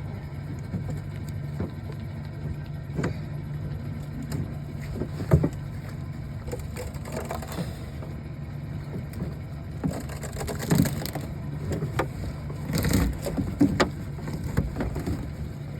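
Boat motor idling steadily under scattered knocks and thumps, which come thickest in the second half.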